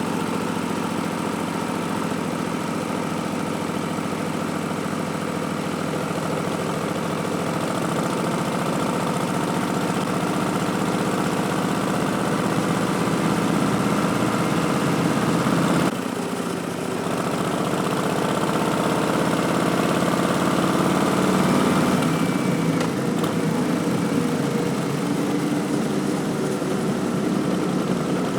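Harley-Davidson 2019 Street Bob's Milwaukee-Eight V-twin, fitted with Vance & Hines Twin Slash slip-on mufflers and an Arlen Ness Big Sucker air cleaner, pulling under way: the engine note climbs steadily, drops sharply about halfway through at a gear change, climbs again, then eases off a few seconds before the end.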